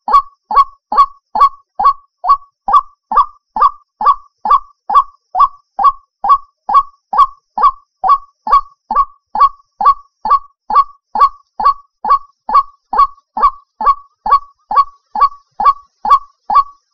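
White-breasted waterhen (ruak-ruak) lure call: a short, loud, falling note repeated very evenly about two and a half times a second without a break.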